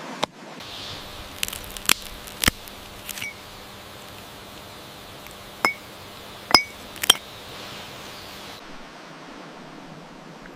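A series of about eight sharp clinks and taps of a hard container, at irregular intervals over a steady background hiss. Three of the clinks ring briefly, and the loudest two come a little past the middle.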